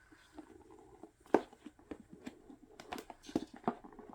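Album packaging being handled: scattered light taps and clicks of cardboard and paper, the sharpest a little over a second in and several more near the end.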